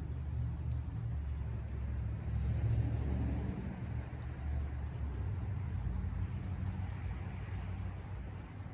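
A low engine rumble, like a motor vehicle running nearby, swelling about three seconds in and easing off near the end.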